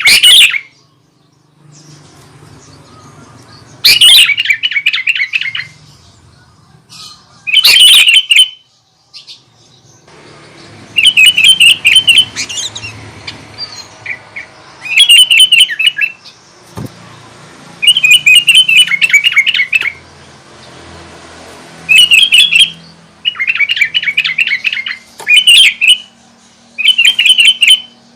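Sooty-headed bulbul (kutilang) singing loudly and close, repeating short warbled song phrases about every two to four seconds.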